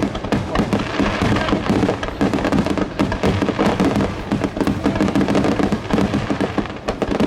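Aerial fireworks bursting and crackling in rapid, continuous succession, with music playing underneath.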